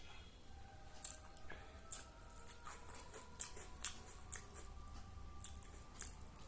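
Close-miked chewing of a mouthful of biryani, with wet lip-smacking clicks about every half second to a second.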